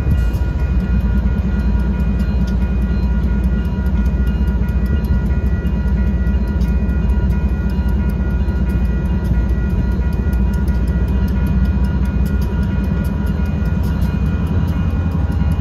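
Diesel locomotives running with a steady heavy rumble at a railroad grade crossing. Over the rumble the crossing signal bell rings steadily.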